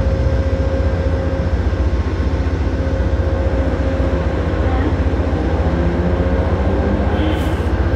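Amtrak passenger train standing at the station and idling: a steady low rumble with a steady hum tone over it, and faint voices in the background.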